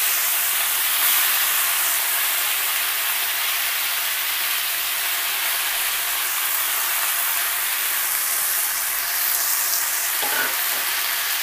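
Fresh mint leaves frying in hot oil in a metal pan: a steady sizzling hiss.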